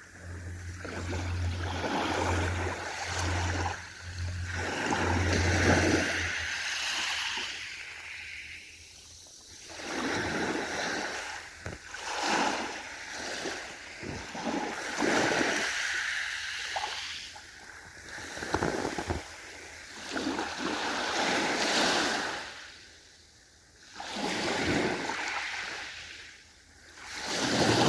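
Ocean waves breaking and washing ashore in repeated swells that rise and fall every few seconds. A low, pulsing hum sits under the surf for the first several seconds, then stops.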